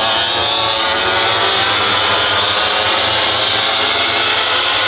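World Superbike race motorcycles running at high revs, a loud and steady engine sound.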